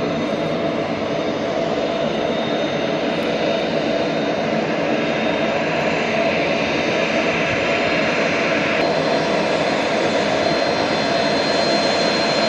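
Antonov transport aircraft's engines running steadily, a dense rushing noise with a thin high whine over it.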